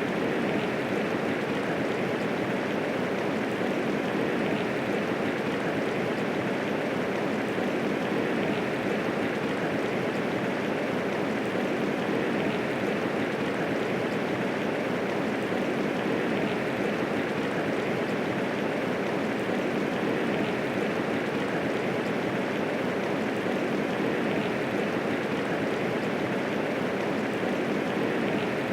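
Steady medium rainfall, an even hiss of rain with no thunder, unchanging throughout.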